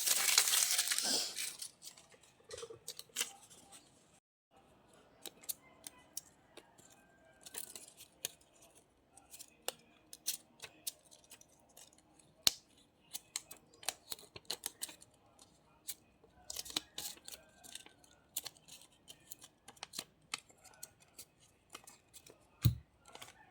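Paper and cardstock being handled and cut with scissors: a burst of paper rustling at the start, then many small scattered snips and clicks, and a single thump near the end.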